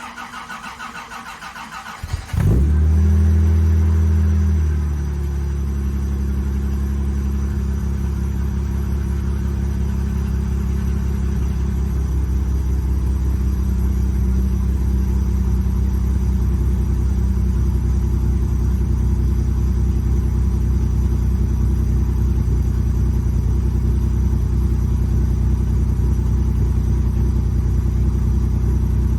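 Cold start of a 1971 Jaguar E-Type's engine: the starter cranks rhythmically for about two seconds, the engine catches with a loud flare of revs, then settles within a few seconds into a steady fast cold idle through its Borla exhaust.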